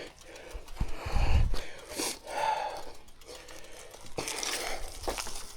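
Mountain bike being ridden along a dirt forest trail: tyres crunching over the ground, with scattered knocks and rattles from the bike and a low thump about a second in.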